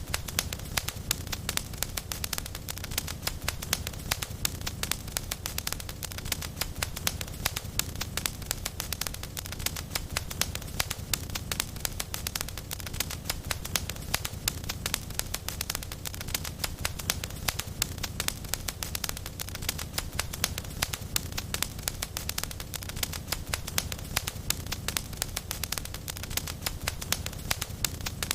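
A fire in a fireplace crackling steadily, with many quick pops and snaps over a low rumble of the flames.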